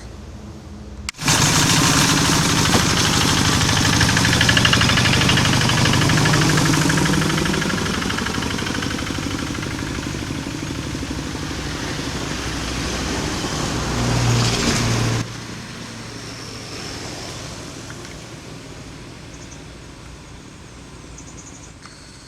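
Dump truck's diesel engine labouring loudly up a steep climb. The sound starts abruptly about a second in and drops suddenly to a quieter run about two-thirds of the way through.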